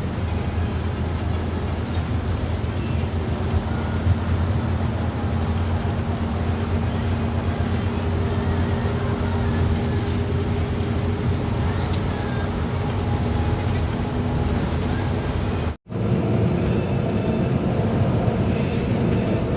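Steady engine and road rumble inside the cabin of a moving Mercedes-Benz double-decker coach. The sound cuts out for an instant about sixteen seconds in.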